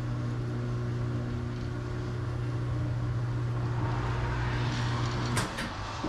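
Tire changer machine's electric motor running with a steady hum as it turns the wheel, stopping abruptly about five seconds in, followed by a few sharp clicks.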